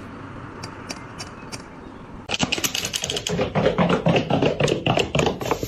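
Low steady hiss, then from about two seconds in a rapid, irregular run of sharp clicks and taps.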